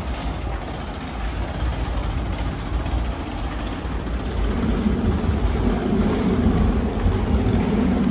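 Low rumble of a Hankyu electric train, growing louder about halfway through with a steady low hum.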